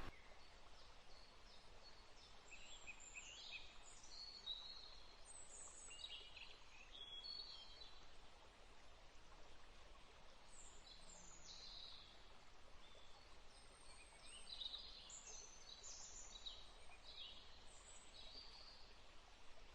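Faint birdsong: many quick, high chirps and short trilled phrases, coming in two spells with a lull in between.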